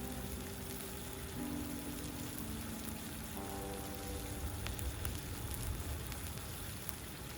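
Food sizzling on a hot iron plate, a steady hiss with a few sharp crackles, under background music with held notes.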